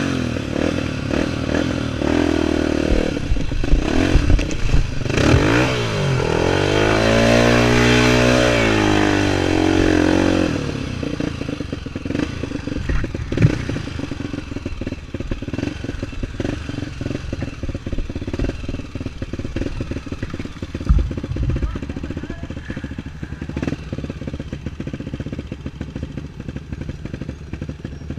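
Single-cylinder four-stroke trail motorcycles running, with a loud stretch a quarter of the way in where one engine's pitch climbs and then falls. After that the engines run on more steadily with clattering knocks.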